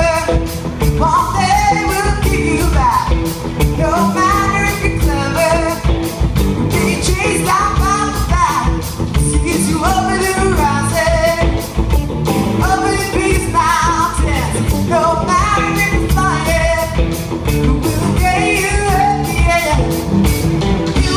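Rock band playing a song live, with a lead singer over the band and a steady drum beat.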